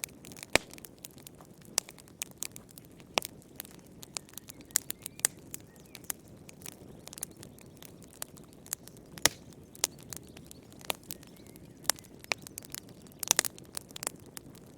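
Wood fire burning in a fireplace, crackling with irregular sharp pops and snaps over a soft, steady low rustle of the flames. The pops come in uneven clusters, with a dense run near the end.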